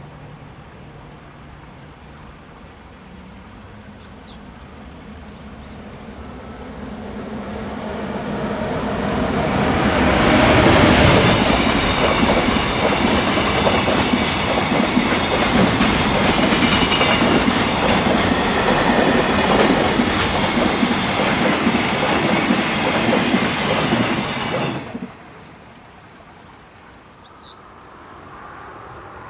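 Electric-hauled JR container freight train passing. The sound of the locomotive and wheels on the rails builds over about ten seconds as it approaches, holds steady while the long string of container wagons runs by, then cuts off suddenly about 25 seconds in as the last wagon passes.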